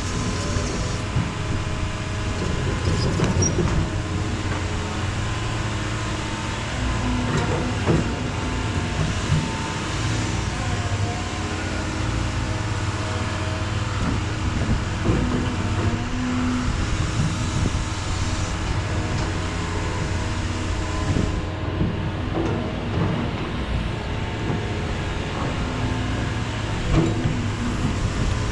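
Heavy equipment diesel engine running steadily under load, with a few scattered metallic clanks.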